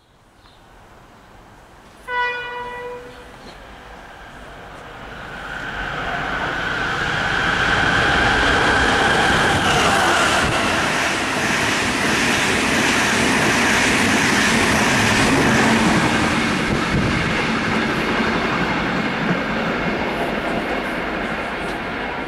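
A short single-note train horn blast about two seconds in, then an Irish Rail 22000-class diesel railcar running through the station at speed. Its noise builds, peaks for several seconds as the carriages rush past, then slowly fades.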